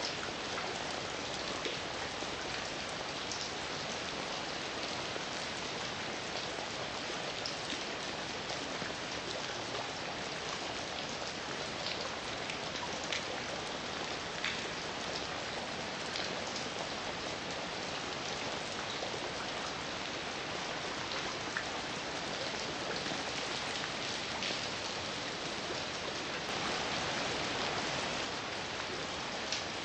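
Heavy rain falling steadily on a surface, with scattered sharper drop hits. It grows a little louder for a couple of seconds near the end.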